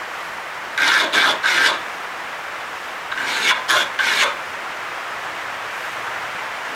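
Dense hardwood being scraped by hand with a coarse abrasive tool in short back-and-forth strokes: three quick strokes about a second in, then four more about three seconds in.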